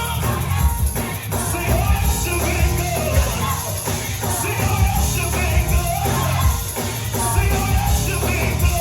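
Gospel choir singing with a live band, a strong bass line and drum beats under the voices.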